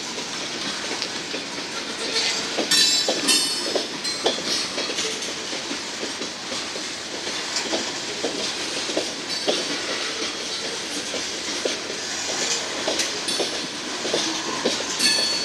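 Freight cars rolling slowly past at a crawl, wheels clacking and knocking over the rail joints with a steady rumble. Brief high wheel squeals come about three seconds in and again near the end.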